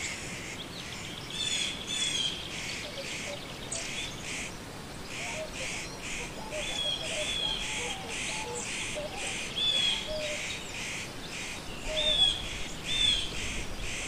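Magpie chattering: a harsh rattle of dry notes repeated about four times a second in runs, with a few short whistled notes mixed in.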